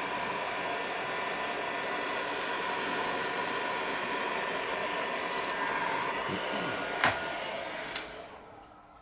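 Electric heat gun blowing steadily as it softens a plastic motorcycle fairing for bending. There are two sharp clicks about seven and eight seconds in, then the blower winds down near the end as it is switched off.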